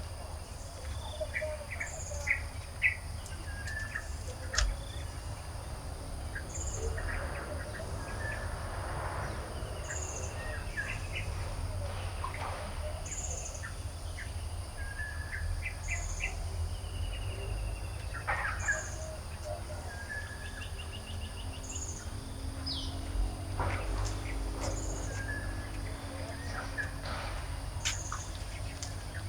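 Garden birds chirping and calling, several at once, with one short high note repeating about every one and a half to two seconds. A steady low rumble and a faint high hum run underneath.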